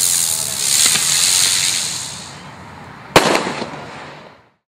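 Buzz Bang novelty firework zinging into the air with a high hissing whizz for about two and a half seconds, then bursting with a single loud report about three seconds in.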